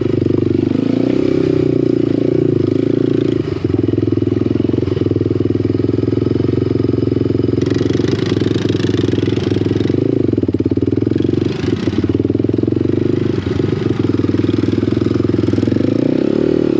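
Small off-road vehicle engine running at a fairly steady speed while riding. A brighter hiss comes over it for a few seconds midway.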